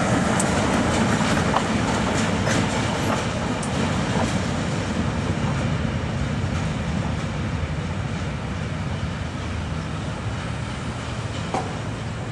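Passenger train with a diesel locomotive rolling past and moving away: steady wheel and engine rumble with sharp clicks from the wheels in the first few seconds, growing gradually quieter.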